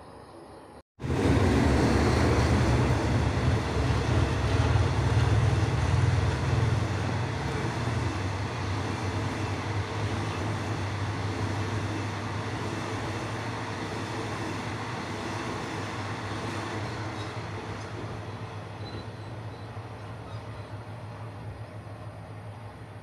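Diesel-hauled passenger train passing on the track: a loud, steady rumble of coaches running over the rails. It starts abruptly about a second in, is loudest for the next few seconds, then slowly fades as the train moves away.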